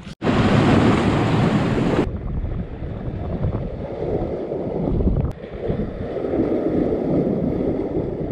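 Surf washing onto the beach, mixed with wind buffeting the microphone. It comes in suddenly as a loud, hissing rush for about two seconds, then settles into a steadier, lower rumble.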